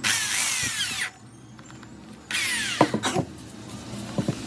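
Bosch electric drill's motor run in two short bursts about two seconds apart, the pitch falling as it winds down each time, followed by a few clicks.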